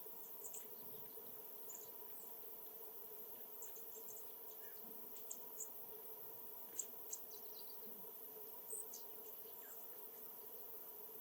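Small birds giving short, high-pitched chips and chirps, scattered and irregular, with a few louder ones between about five and nine seconds in, over a faint steady hum.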